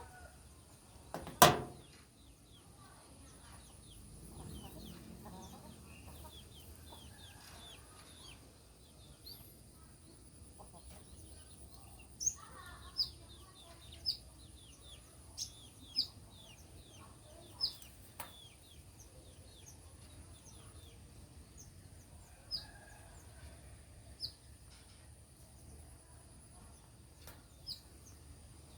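Wild birds calling: short, high, falling notes repeated every second or two, over a steady high-pitched hum. A single sharp knock sounds about a second and a half in.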